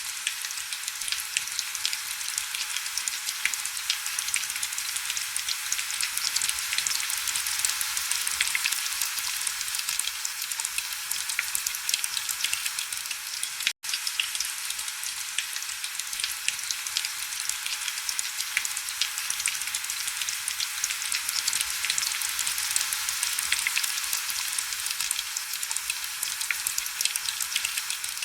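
Steady heavy rain: a dense hiss of countless fine drop patters, all high and crackly with no low rumble. The sound cuts out for a split second about halfway through.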